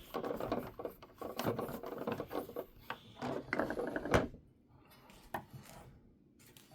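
Plastic toy Batmobile being handled, its loose screws and parts rubbing and clicking, with one sharp click about four seconds in, then quieter handling.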